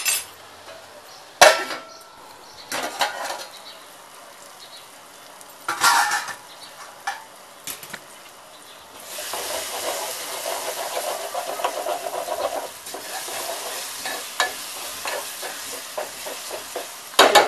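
A few sharp metal clanks against an aluminium pot, then from about nine seconds in a steady sizzle of chopped onion and tomato frying in oil, with a spoon scraping and clattering in the pot near the end.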